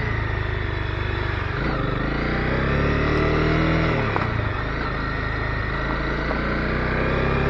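Honda CB250R's single-cylinder engine pulling under way, its pitch climbing and then dropping briefly at gear changes about two and four seconds in.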